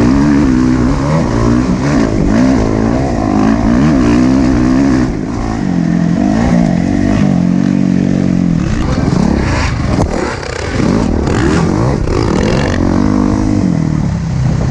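Motocross dirt bike engine revving up and down over and over as the bike accelerates and backs off around the track.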